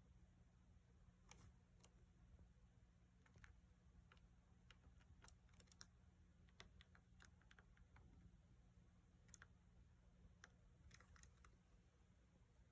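Faint, irregular small clicks and taps, sometimes several a second, over a low steady hum.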